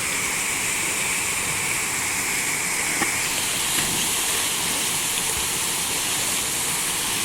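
Waterfall rushing steadily into a deep plunge pool, an even, unbroken roar of falling water.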